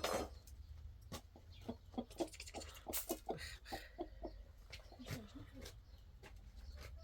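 Chickens clucking: a quick run of short calls, with a few sharp knocks among them.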